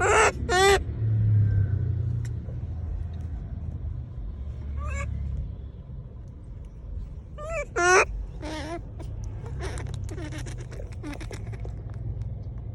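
A monkey giving short, high, honking calls, about six in all: two at the start, one near the middle and a quick run of three a little later. A steady low rumble runs underneath.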